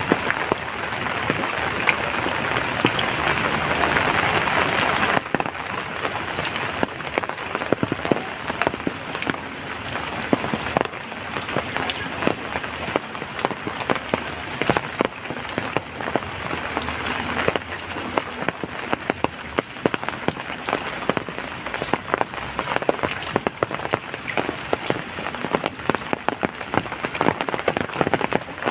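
Rain falling, with many separate drops tapping on a surface. A denser, louder rush of rain gives way suddenly about five seconds in to more distinct, scattered drips.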